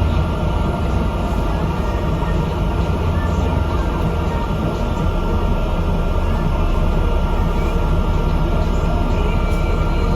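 Steady engine and road noise of a bus on the move, heard from inside: a loud low rumble with a faint steady whine above it.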